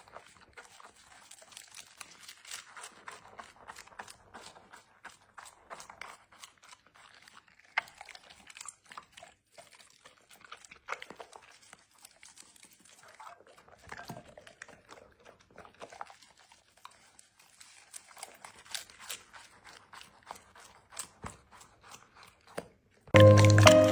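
A chocolate Labrador chewing and crunching its food: a quick, uneven run of small crunches and mouth clicks with short lulls. Loud music cuts in near the end.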